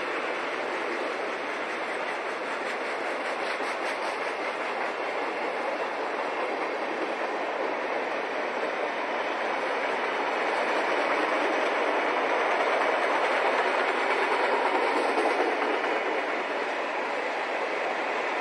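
A long freight train of boxcars and covered hoppers rolling past, its wheels on the rails making a steady rolling noise that grows a little louder in the second half.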